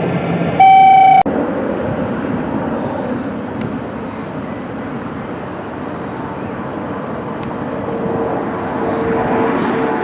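Steady noise of aircraft engines at the airfield, swelling slightly near the end. About half a second in comes a short, loud electronic beep lasting about half a second.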